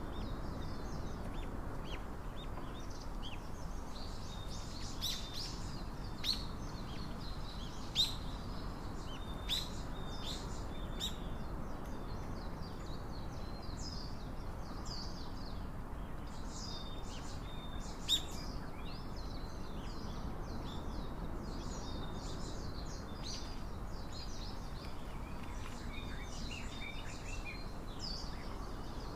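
Small songbirds chirping again and again, many short calls, over a steady low background rumble, with a few sharp ticks standing out.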